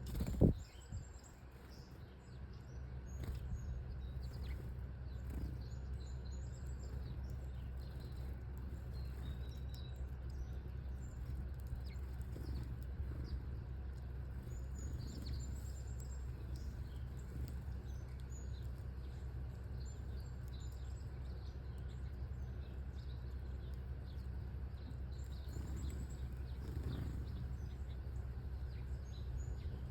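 Small birds chirping and twittering on and off over a steady low rumble of background noise. A single thump comes about half a second in.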